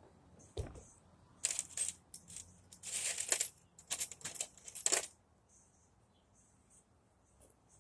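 A soft thump, then several bursts of small metal pieces clinking and jingling together over about four seconds.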